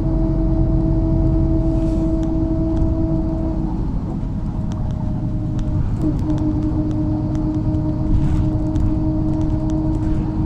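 MAZ-103 city bus under way, heard from a passenger's seat: a steady low engine and road rumble with a constant whine over it. The whine drops out about four seconds in and returns about two seconds later, with a brief wobble in pitch, along with faint rattles.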